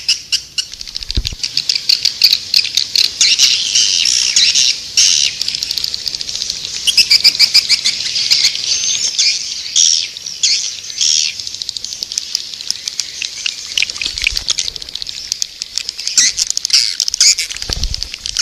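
Swiftlets twittering: a dense, continuous chatter of high chirps and rapid clicking trills. This is a swiftlet lure call, the kind played to draw swiftlets into a nesting house.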